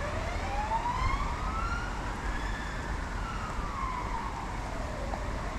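Fire engine siren wailing as it drives off to another call. It makes one slow rise and fall over about five seconds and starts rising again near the end, over a steady low rumble.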